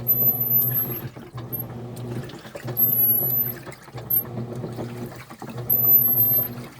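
Washing machine running with water sloshing in the drum over a steady motor hum. A high whine comes and goes three times, and the machine's owner fears it is about to burst.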